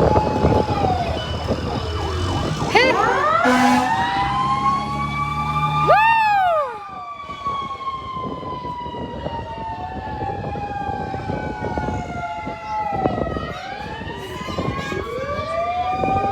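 Fire truck sirens wailing, several at once, their pitch slowly rising and falling and overlapping, with quick short sweeps about 3 and 6 seconds in. They are a little quieter from about 7 seconds in.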